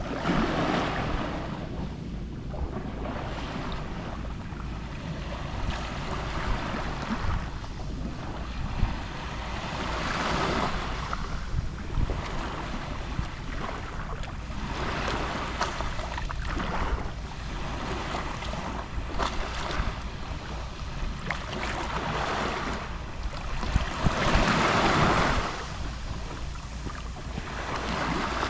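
Small sea waves lapping and washing up on the shore, each surge swelling and fading a few seconds apart, with the biggest wash about three-quarters of the way through. A low wind rumble on the microphone runs underneath.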